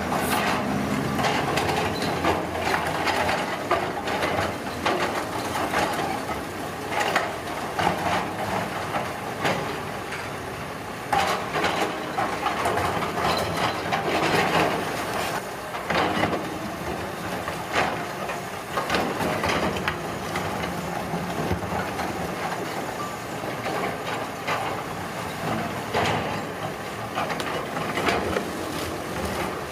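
Road construction machinery at work: a steady engine rumble with frequent knocks and clatters of material being moved.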